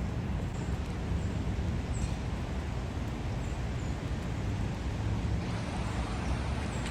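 Steady city street noise: a low rumble of traffic under an even hiss, with a few faint high chirps.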